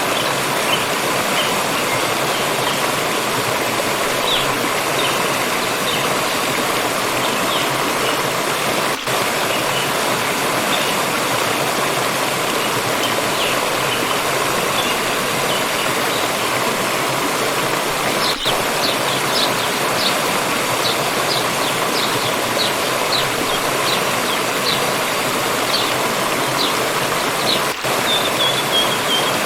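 Steady rushing and splashing of water flowing in a stream, with small birds chirping over it. Partway through, one bird calls in a run of short high chirps, ending in a quick falling trill.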